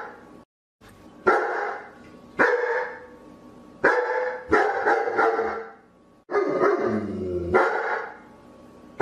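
Dog barking repeatedly, single barks about a second apart, with a quick run of barks around four to five seconds in and a longer, drawn-out bark about six seconds in.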